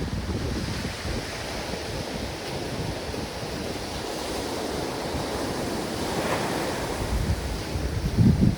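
Ocean surf washing steadily, with a wave breaking about six seconds in. Wind buffets the microphone near the end, the loudest moment.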